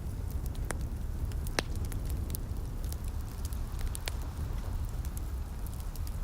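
Fireplace fire crackling, with scattered sharp pops and snaps over a steady low rumble and soft hiss.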